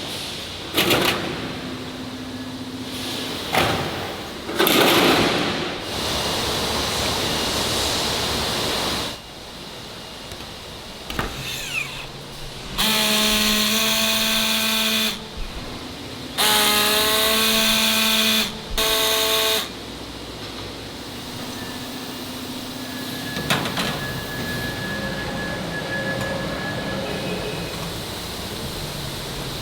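Machinery and tool noise with clanks on a precast concrete factory floor, and a horn or warning signal sounding three times midway: two long blasts and a short one.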